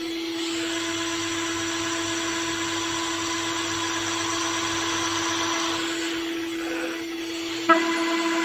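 Tomahawk Pro CNC machine's spindle running steadily with a held whine over a noise of cutting, as it mills a plate. Near the end a sharp click, after which the sound is a little louder.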